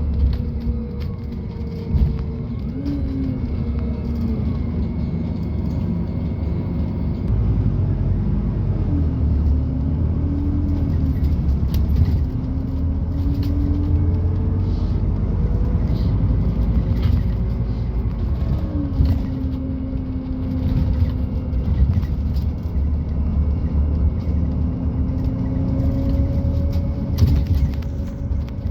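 Scania Citywide city bus with a Scania OC09 natural-gas (CNG) engine driving, heard from inside the cabin: a steady low rumble with the engine note climbing and dropping back several times as the bus pulls away and changes gear, with occasional knocks and rattles.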